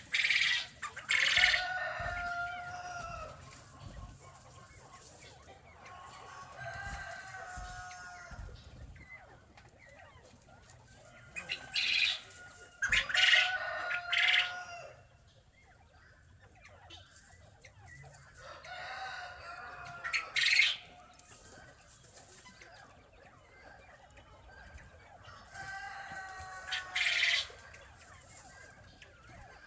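Rooster crowing about every six seconds, five drawn-out crows in all, with short sharp squawks from the flock between some of them.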